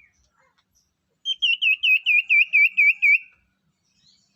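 A sirtu songbird calling: a quick, loud run of about nine even chirps, each dipping down and back up in pitch, lasting about two seconds from a little over a second in.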